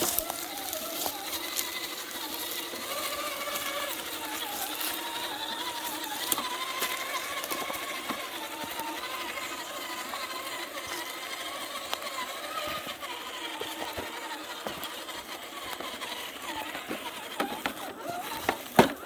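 An RC car's motor whining, its pitch wavering up and down with the throttle, with a few sharp knocks near the end.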